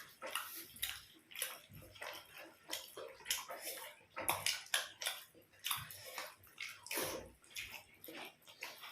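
Eating sounds: wet chewing and mouth smacking on paratha and curry, in quick irregular clicks with no speech.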